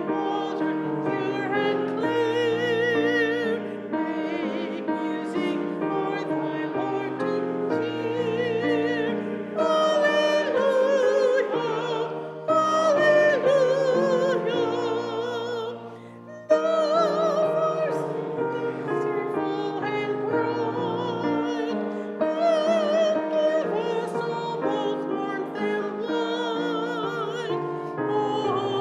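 Vocal group singing a sacred piece with wide vibrato to piano accompaniment, in long held phrases with a short break about halfway through.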